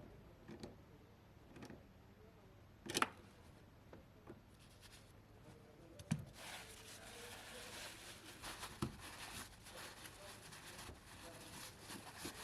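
Faint handling noises: scattered clicks and knocks, the loudest about three and six seconds in, followed by a steady faint hiss from about halfway through.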